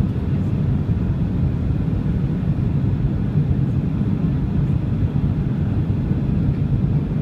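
Steady low rumble of a Boeing 737-800's engines and airflow as heard from inside the cabin.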